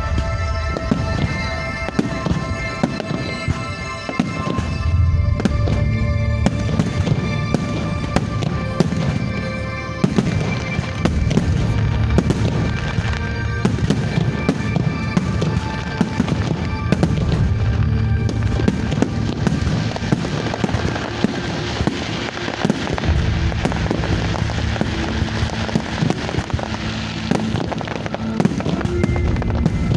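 Fireworks going off in quick succession, with bangs and crackling that grow denser through the second half, over loud music.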